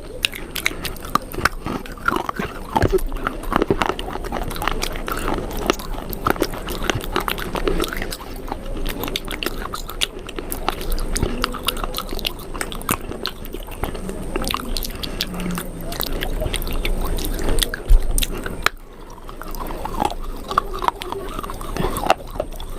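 Close-up chewing and biting of pieces of baked clay pot: a dense, irregular run of sharp crunches, with a short lull about three-quarters of the way through.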